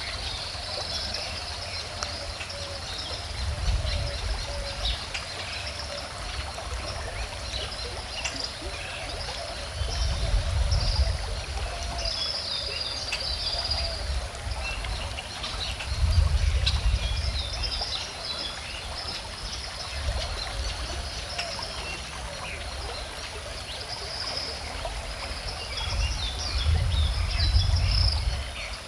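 Calm river water flowing and trickling steadily, with birds chirping high over it. A low rumble swells up and fades about four times.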